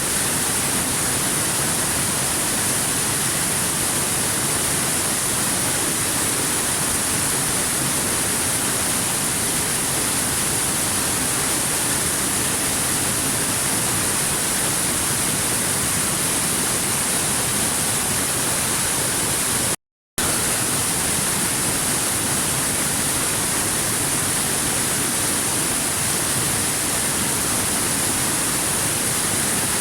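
Steady rushing of a waterfall, an even hiss with a bright high edge that cuts out completely for a split second about twenty seconds in.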